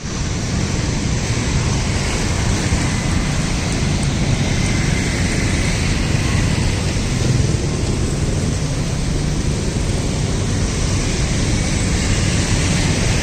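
Steady, loud rumbling noise with a hiss over it and no distinct events, heaviest low down.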